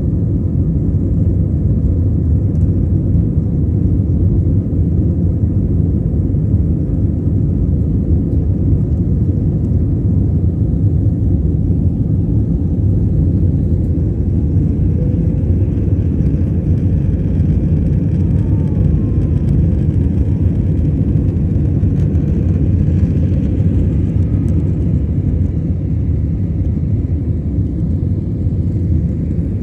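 Steady, loud, low rumble of a jet airliner's engines and rushing air, heard from inside the cabin during the climb after takeoff.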